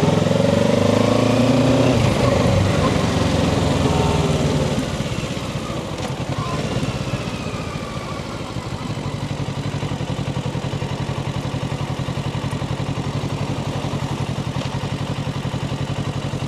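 Kawasaki Ninja 650's parallel-twin engine slowing, its pitch falling over the first few seconds, then settling into a steady idle from about halfway through.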